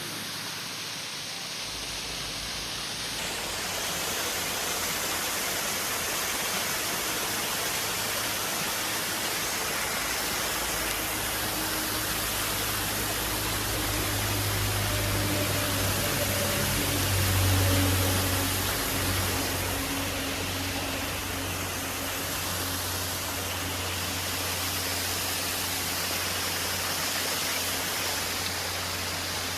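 Steady rushing water, a constant even roar, with a low hum swelling in over the middle and peaking about two-thirds of the way through before easing off.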